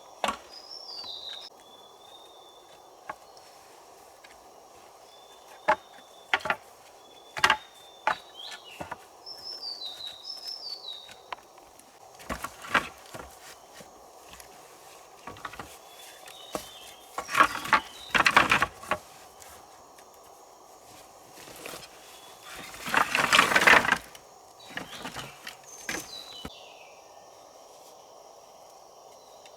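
Shelter-building work in the rainforest: scattered sharp knocks and two longer bursts of rustling, the loudest about two thirds of the way in. Underneath runs a steady background drone, with short descending chirps now and then.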